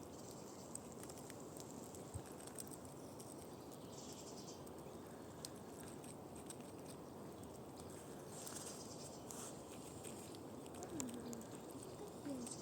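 Squirrel gnawing at a nut in its shell: faint, scattered clicks and scratches.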